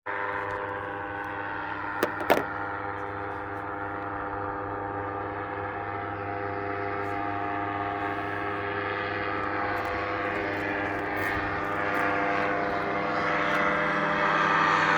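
Paramotor's small backpack engine and propeller buzzing steadily, growing louder as it approaches. Two sharp clicks about two seconds in.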